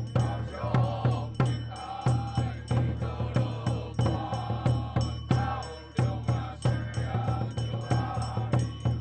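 Taoist temple ritual music: drums and cymbals beating steadily, about three strokes a second, under a wavering chanted melody.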